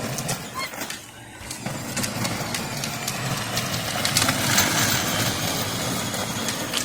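Power Wheels Silverado ride-on toy truck, upgraded from 6 to 12 volts, driving: its electric drive motors and plastic wheels make a steady rolling noise that dips about a second in, then grows louder.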